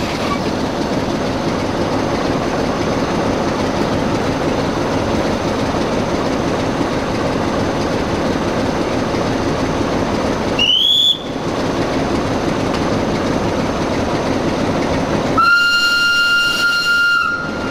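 Train running on the rails with a steady rumble throughout. About ten seconds in there is a short rising squeal, and near the end a locomotive horn sounds one steady note for about two seconds.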